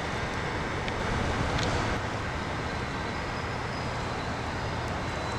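Steady outdoor hum of distant road traffic.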